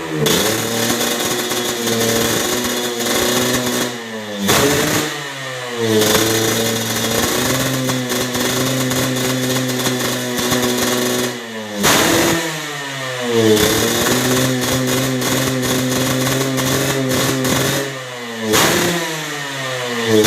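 Yamaha RX-King two-stroke single-cylinder engine running through an aftermarket racing exhaust, idling steadily. The throttle is blipped about seven times; each blip revs sharply and quickly falls back to idle.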